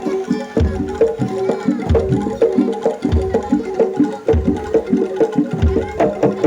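Live jaranan dor ensemble playing: a quick repeating pattern of struck, pitched gamelan-style notes and drum slaps over a deep drum stroke about once a second.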